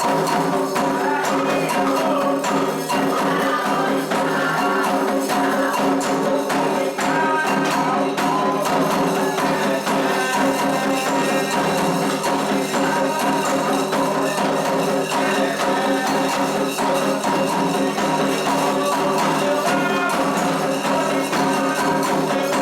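Candomblé ritual music for Xangô: continuous percussion with jingling metal accents under sustained singing voices, played without a break.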